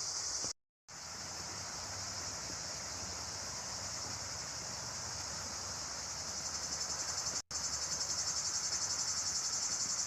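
Insects trilling in a steady, high, rapidly pulsing chorus, cut off to silence twice for a moment, about half a second in and again near seven and a half seconds.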